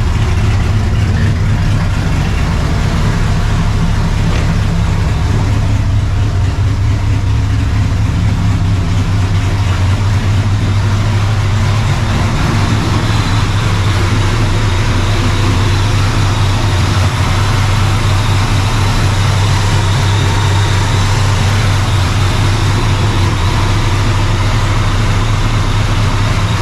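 Straight-piped, Procharged 5.4-litre V8 of a 1999 Mustang GT idling steadily shortly after a cold start, its tone shifting a little about halfway through.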